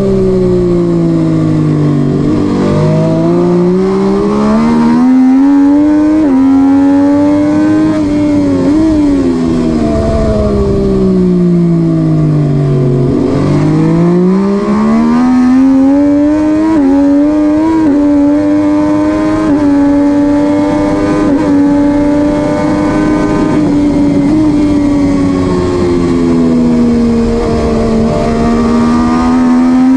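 MV Agusta F3 675's three-cylinder engine at racing speed: the note falls twice in long drops as the rider brakes and downshifts, then climbs in quick stepped upshifts and holds high along a straight.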